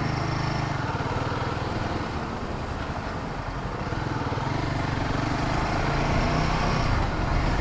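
Royal Enfield Himalayan 450's single-cylinder engine running steadily while the motorcycle is ridden, over a haze of road and wind noise.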